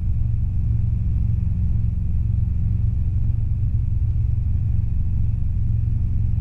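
Steady drone of a Robinson R22 helicopter's engine and rotors in flight, heard in the cockpit.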